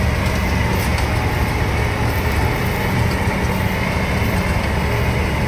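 Tractor-mounted combine harvester running steadily while cutting rice paddy: a continuous, loud low engine drone mixed with machinery noise.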